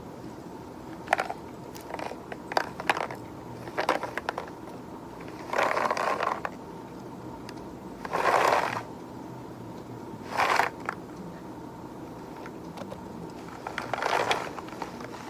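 Close-up handling sounds of desk objects: a few sharp clicks and taps, then four short scraping, crunching bursts a couple of seconds apart.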